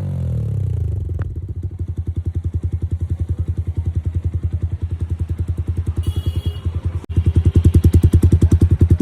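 Yamaha R15 V4's single-cylinder engine breathing through an R1M-style full-system exhaust with a dB killer fitted. The revs fall back to idle in about the first second, then settle into an even, rapid run of low exhaust pulses. The sound cuts out briefly about seven seconds in and comes back louder.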